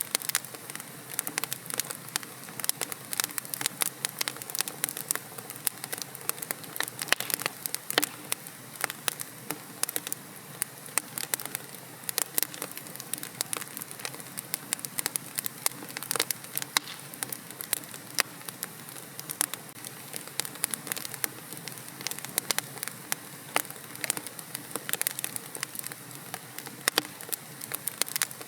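Fire burning in a fireplace, crackling: many irregular sharp pops and snaps, some louder than others, over a steady soft hiss.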